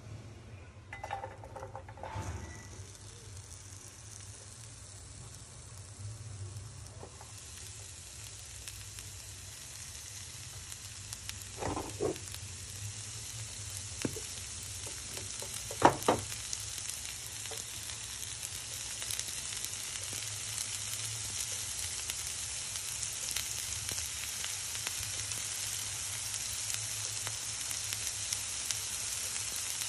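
Chopped vegetables frying in olive oil in a pan, a steady sizzle that builds after the first few seconds and grows louder. A few sharp knocks against the pan stand out, the loudest about halfway through.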